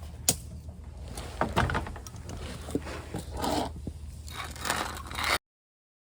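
Scrapes and a few scattered clicks of a grease gun and hands working at hard-to-reach grease fittings under a vehicle. The sound cuts off suddenly about five seconds in.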